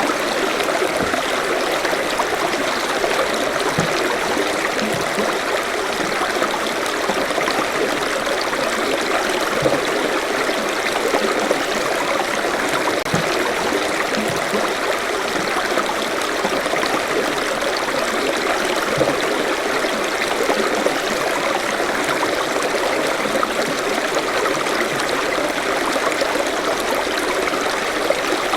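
Forest stream flowing steadily over rocks, a continuous rush of water with small trickles and splashes.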